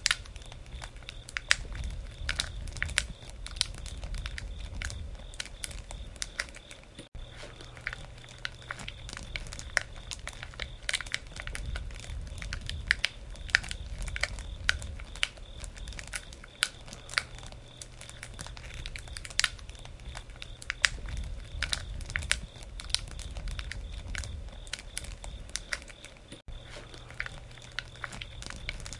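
Wood campfire crackling, with irregular sharp pops and snaps over a low steady rumble of the flames. The sound briefly cuts out twice, about 7 seconds in and near the end.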